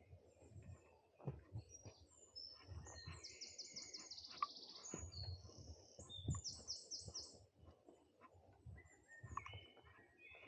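Songbirds singing, with chirps and two quick trills of rapidly repeated high notes, about three seconds in and again past six seconds, over soft, regular footsteps on a forest trail.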